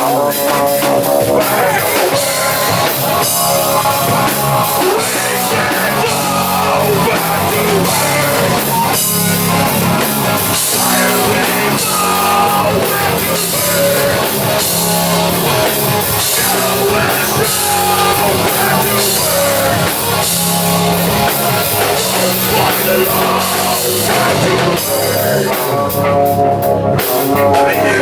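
Live rock band playing a song: electric guitar and drum kit, with some singing.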